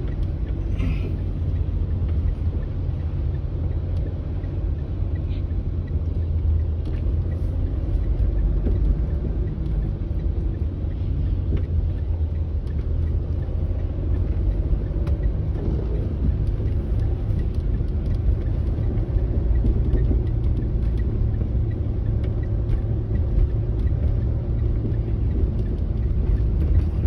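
Car running on the road with a steady low rumble of engine and road noise.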